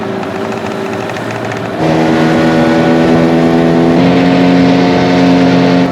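A boat engine running, throttled up sharply about two seconds in and a little more about two seconds later, then eased back near the end.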